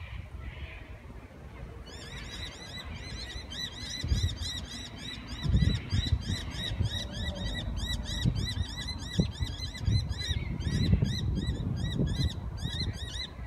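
A bird calling, a high chirp repeated about four times a second from about two seconds in until near the end, over a low rumble that comes in gusts.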